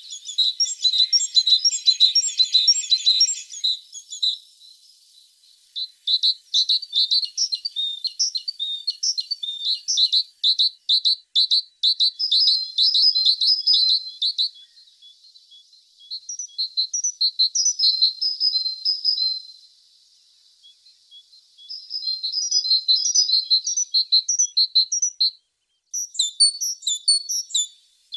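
A tit singing: phrases of rapid, high chirps and trills, broken by short pauses of a second or two.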